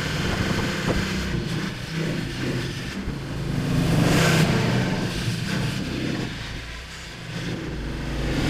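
Snow blower engine running steadily, its loudness swelling and easing; it drops briefly near the end, then picks up again.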